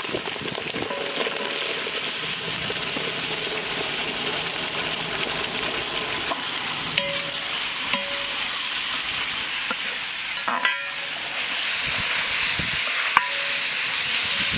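Cauliflower florets sizzling in hot oil with fried onions in a large metal pot, stirred with a metal ladle that knocks and scrapes against the pot a few times. The sizzle gets louder near the end.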